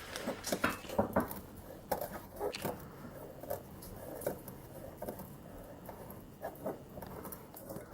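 Kitchen knife cutting on a cutting board: a series of irregular short taps, roughly one or two a second.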